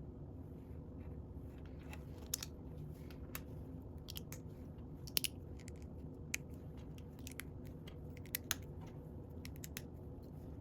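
Small plastic Lego pieces clicking and clattering as they are handled and sifted through, in scattered light ticks a second or so apart, over a faint steady hum.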